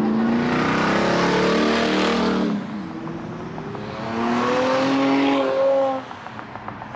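Car engines revving hard as cars accelerate away on the street, in two loud pulls: the first eases off about two and a half seconds in, the second builds about four seconds in and drops away abruptly near the end.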